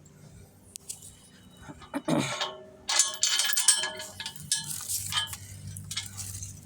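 Metallic clanking and rattling: a few sharp clinks, a short falling squeak about two seconds in, then a busy clatter for a couple of seconds.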